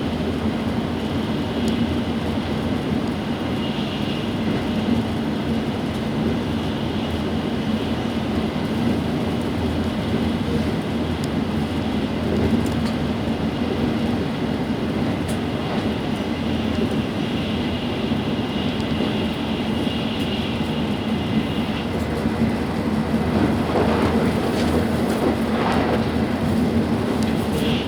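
Tokaido Shinkansen running at speed, heard inside the passenger car: a steady rumble with a low hum, and a higher hiss that comes and goes. It swells slightly near the end.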